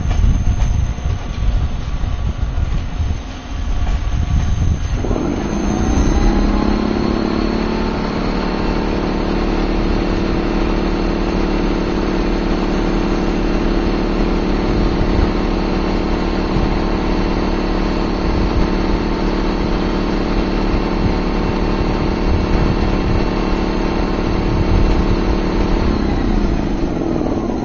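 A passenger train's couchette carriages roll slowly past with a low rumble. About five seconds in, a steady machine drone from the train's equipment starts, rises briefly in pitch, then holds steady and fades near the end.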